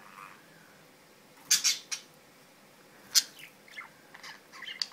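Budgerigars calling: after a quiet moment, two loud, sharp squawks about a second and a half apart, then a run of softer short chirps near the end.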